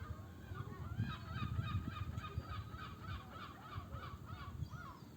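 Birds calling in a rapid run of repeated calls, about three a second, starting about a second in, over the low rumble of the sea.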